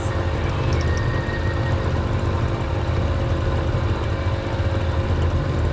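A steady low engine drone running evenly, with a few faint clicks about half a second to a second in.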